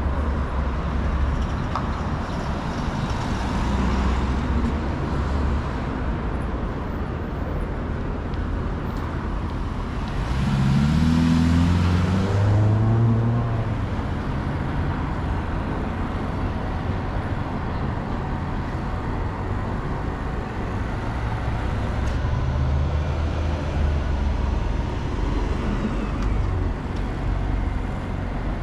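City street traffic: a steady rumble of passing cars. About ten seconds in, a vehicle accelerates past close by, its engine note rising over a few seconds before it fades back into the traffic.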